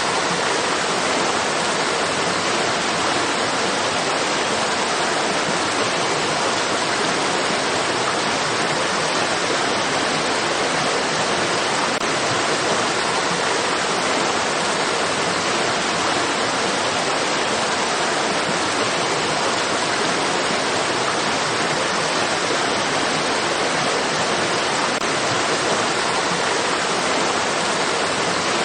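Steady rushing of flowing stream water, an even hiss with no changes or distinct splashes.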